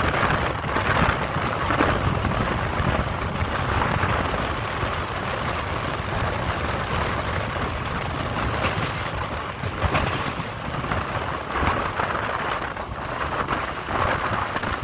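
Steady rush of wind buffeting the microphone over the running noise of a moving passenger train, with a couple of brief sharp clicks around nine and ten seconds in.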